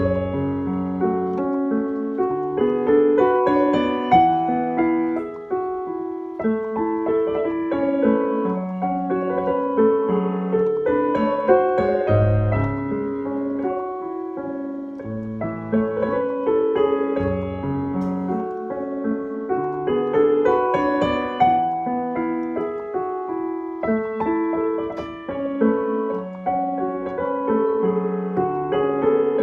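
Solo piano playing a continuous melodic passage of sustained notes over a flowing accompaniment.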